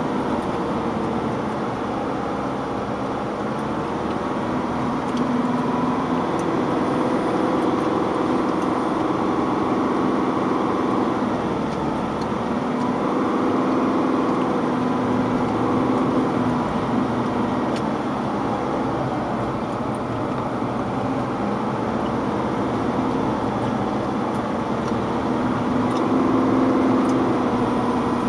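Vehicle engine running while driving slowly along a muddy dirt track, heard from inside the cab with steady road and tyre noise; the engine note swells and eases several times with the throttle.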